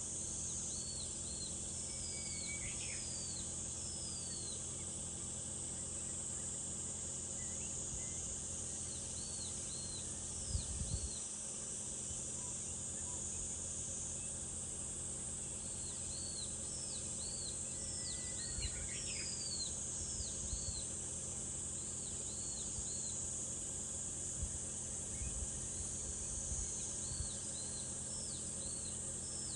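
Steady high-pitched drone of a summer cicada chorus, with a small bird giving clusters of short downward-sweeping chirps again and again. A low rumble lies underneath, with a brief low thump about ten seconds in.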